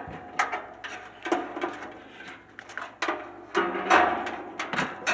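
Repeated knocks and clunks from a metal box fan being handled and turned around, about two a second.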